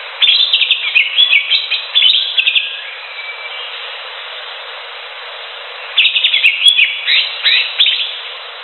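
Cucak hijau (greater green leafbird) singing: two phrases of rapid, varied chirps and sweeping whistles, the first just after the start lasting about two and a half seconds, the second from about six seconds in, over a steady background hiss.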